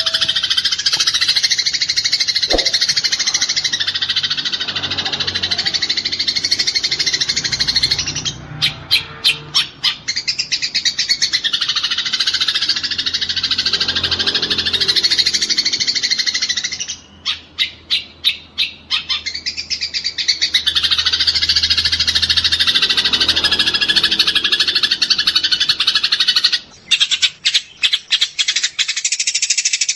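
Eurasian tree sparrows chattering in a dense, rapid, continuous stream, the agitated calling of sparrows fighting. It thins three times into a couple of seconds of separate quick calls.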